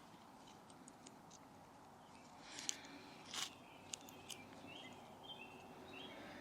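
A few faint, scattered clicks and light scrapes of small sticks being handled, over a low steady background hiss.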